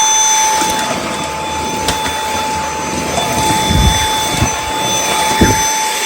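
Dyson V8 Extra cordless vacuum running on minimum power with the Fluffy soft-roller head fitted. It makes a steady high motor whine over airflow hiss, with a few brief low thumps as the head is moved.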